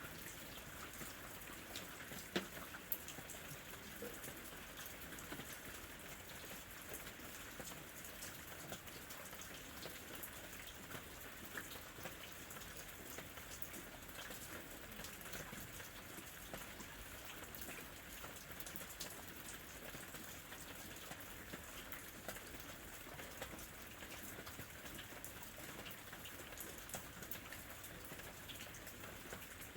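Steady rainfall, a constant soft hiss with many individual drops ticking as they land, a few louder drops about two to three seconds in.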